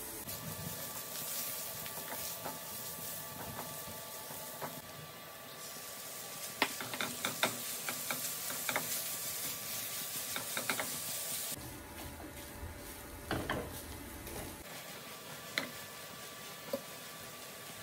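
Onions and spices sizzling in a non-stick frying pan, then chicken mince frying as a silicone spatula stirs and breaks it up, with scattered clicks and scrapes of the spatula against the pan from about a third of the way in.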